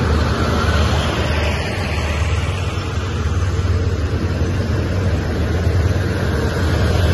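State Railway of Thailand express train's passenger carriages rolling slowly past the platform as the train pulls out of the station: a steady low rumble.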